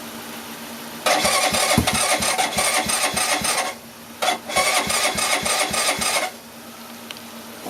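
Electric starter cranking the new 200cc engine of a Suzuki GS125-based motorcycle in two tries of about two and a half and two seconds, with a slow, uneven chug of compression strokes; the engine does not catch on a cold start with a discharged battery and an unset carburettor.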